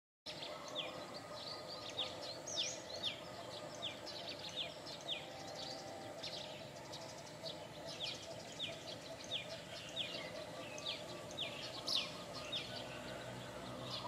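Small birds chirping: a long run of short, high chirps, each sliding downward, about two a second, over a steady background hum.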